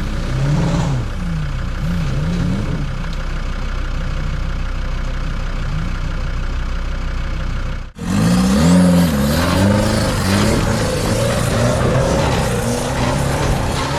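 Off-road 4x4 truck engine revving up and down over and over. It breaks off abruptly about eight seconds in, and the revving picks up again a little louder.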